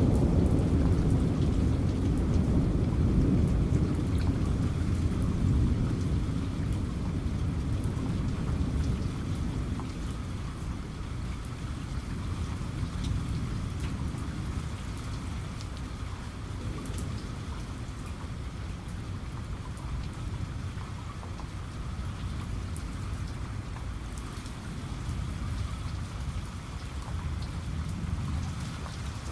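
Steady rain falling, with a low thunder rumble that is loudest at the start and dies away over the first ten seconds or so.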